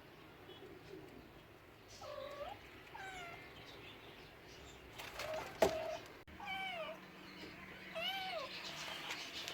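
Domestic cat meowing about five times in short calls that rise and fall in pitch. A sharp click is heard about halfway through.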